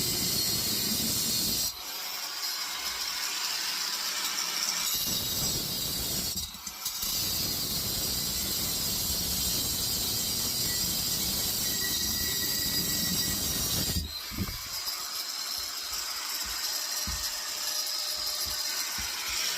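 Cutting disc grinding through a compressor's metal casing, a steady screech with short drops about two, six and a half and fourteen seconds in. The disc is worn and cuts slowly.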